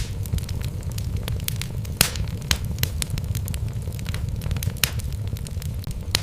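Wood fire burning in a fireplace: irregular sharp crackles and pops of the burning logs over a steady low rumble of the flames, with one louder pop about two seconds in.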